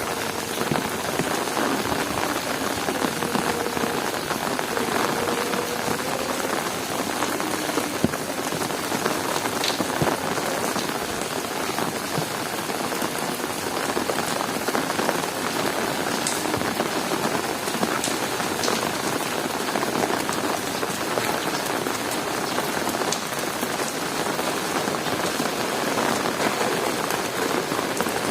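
Heavy rain falling steadily, a dense hiss with sharp drops tapping here and there.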